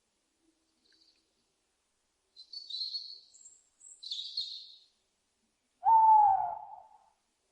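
An owl hoots once near the end, a call of about a second that falls slightly in pitch. Before it come two short, high chirping calls of a smaller bird.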